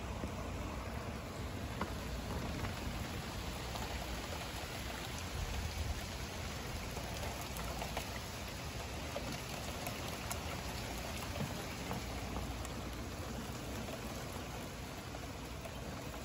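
Steady thunderstorm rain falling, with scattered single drops ticking close by.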